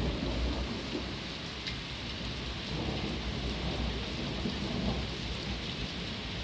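Steady rain falling, with a few faint drop ticks, over a low rumble of thunder.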